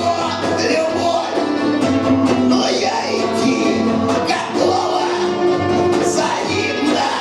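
Punk rock band playing live: loud amplified music with singing.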